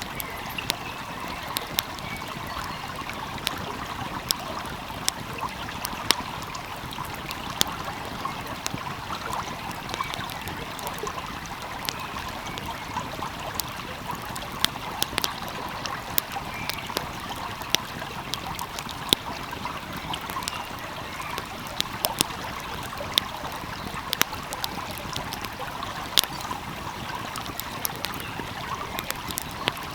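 A wood fire crackling, with sharp irregular pops every second or so, over the steady rush of a flowing stream.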